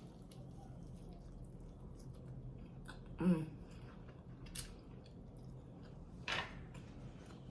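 A person chewing chicken close to the microphone, with small wet mouth clicks. There is a short hummed vocal sound about three seconds in and a louder smack near the end.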